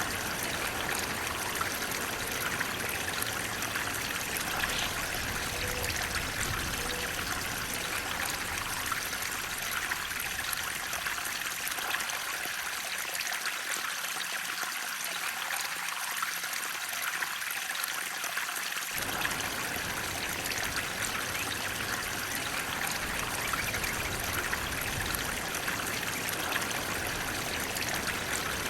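Water flowing steadily, an even rushing and trickling with most of its sound in the upper middle range. Its low rumble falls away for several seconds midway, then comes back abruptly.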